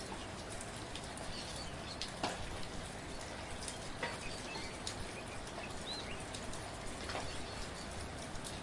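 Steady light rain: an even patter with individual drops striking close by every second or two.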